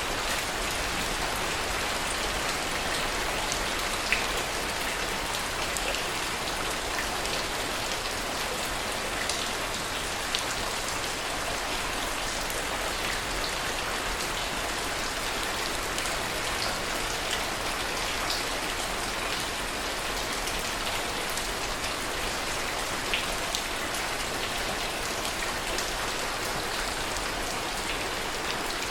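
Steady rain falling, with a few louder single drops ticking now and then.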